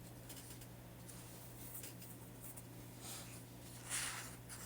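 Faint rustle of paper pages of a magazine-style coloring book being turned, loudest about four seconds in, over a steady low hum.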